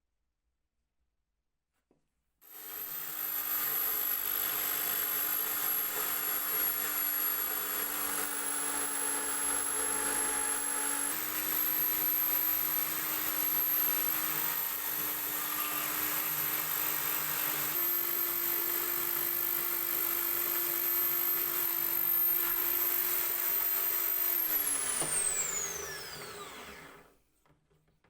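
An electric power tool starts up a couple of seconds in and runs steadily with a high whine, its pitch stepping up twice. It then winds down with a falling pitch and stops near the end.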